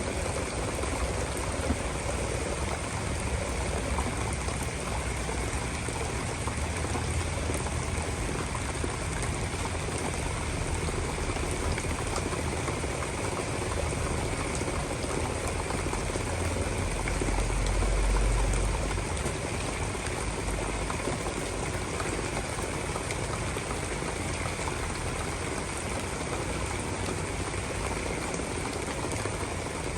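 Heavy rain pouring down steadily, with a low rumble that swells and fades just past the middle.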